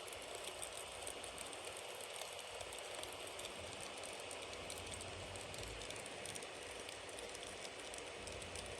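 Bonfire burning: a steady hiss with many small crackles and pops.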